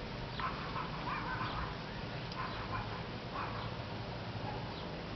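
Parrot squawking: a series of short, harsh calls, five or six of them spread through the few seconds.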